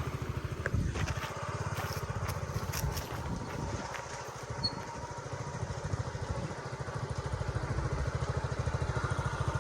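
Small scooter engine idling with a steady, fast low putter.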